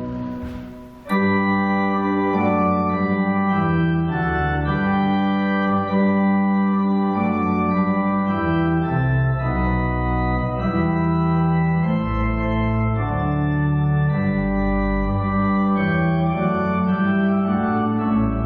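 Organ playing slow, sustained chords that change about once a second, after a brief break with a short hiss in the first second.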